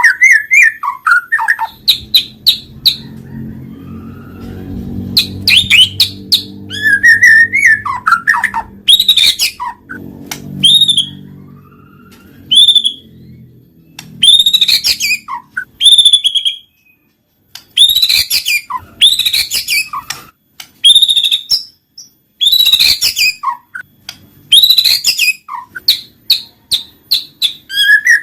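White-rumped shama (murai batu) singing: loud, varied phrases of clear whistles and quick chattering notes, repeated every second or two with short pauses between them. A faint low hum runs underneath for roughly the first half.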